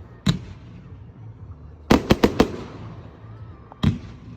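Fireworks exploding: a single sharp bang, then a quick run of four bangs about two seconds in, and another near the end, each with a short echoing tail.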